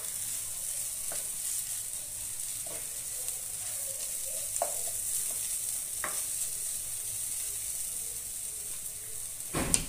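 Onion-tomato masala with kasuri methi sizzling in oil in a non-stick kadhai as a spatula stirs and scrapes it, with a steady hiss and a few light clicks. A sharp knock near the end is the loudest sound.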